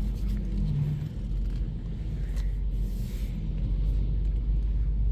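BMW 535i Gran Turismo on the move, a steady low rumble of engine and road noise.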